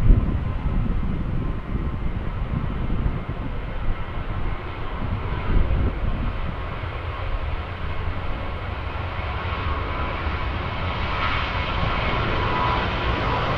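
Jet engines of a departing Boeing 737-800 (CFM56-7B turbofans): a steady low rumble, with a high engine whine building and growing louder near the end.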